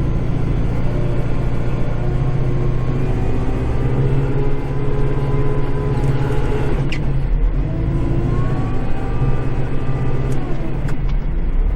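Kubota tractor's diesel engine running steadily, heard from inside the cab, with a deep hum and fainter tones above it that slide up and down as the load changes. There is one sharp click about seven seconds in.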